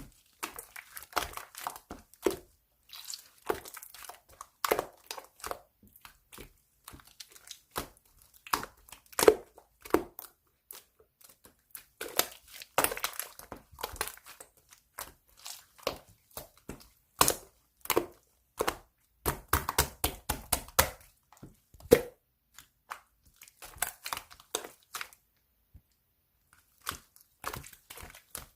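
Close, irregular crinkling and rustling of something being handled, mixed with short taps and clicks, pausing briefly now and then.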